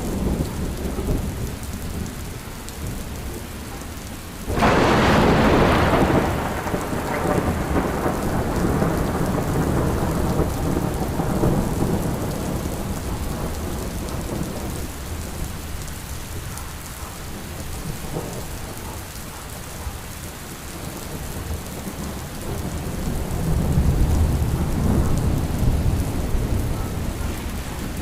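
Steady rain with thunder: a sudden close thunderclap about four and a half seconds in that rumbles away over several seconds, and a second low rumble of thunder near the end.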